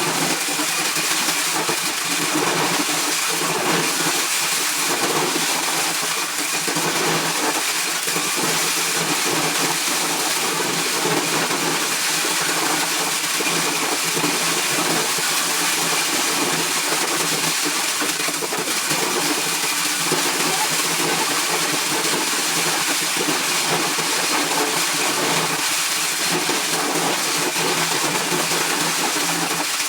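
Motor-driven corn shelling machine running steadily: a constant engine drone under an even rushing noise, with no change in speed.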